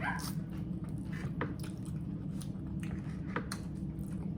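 Close-up chewing and lip-smacking of someone eating barbecue pork ribs, with scattered short wet mouth clicks.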